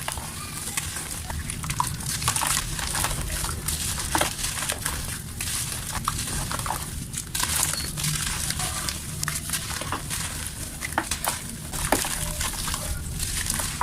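Dry, dusty mud chunks being crumbled and snapped by hand: a continuous crisp crackle dotted with many small sharp snaps.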